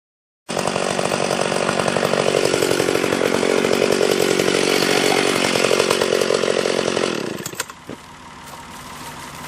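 Gas chainsaw cutting through a large sweet gum trunk at full throttle, dropping back to a low idle about seven seconds in, followed by a few sharp snaps.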